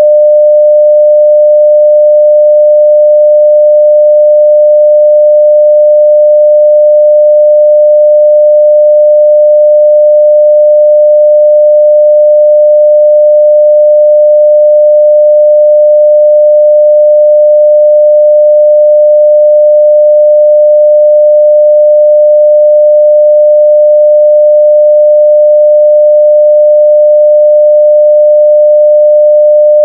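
A steady 600 Hz sine-wave test tone at full level (0 dB), a single pure pitch held without change.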